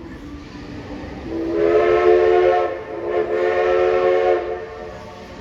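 Steam locomotive's chime whistle blown in two long blasts, each sounding a chord of several steady notes.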